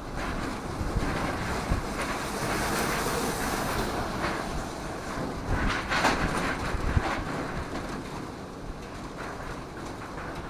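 Typhoon wind gusting hard with heavy rain, the wind buffeting the microphone into a low rumble. Gusts surge about a second in and again around six seconds, then ease off near the end.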